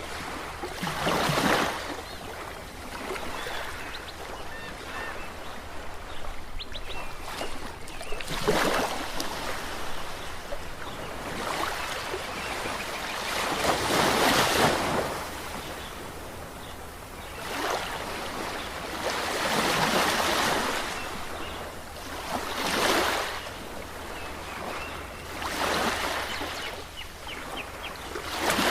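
Ocean waves breaking and washing in. About six waves swell up loudly at uneven gaps of three to six seconds over a steady background of surf.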